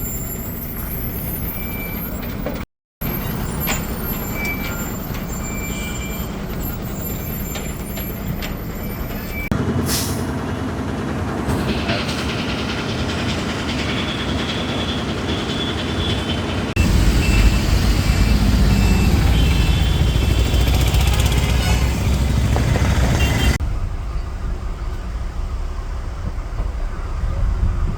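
Heavy lorry engine running, heard as a series of short edited clips with abrupt changes in sound, the deepest and loudest stretch a little past the middle.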